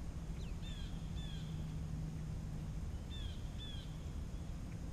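A bird calling in two pairs of short, falling notes, the second pair about three seconds in, over a steady low hum.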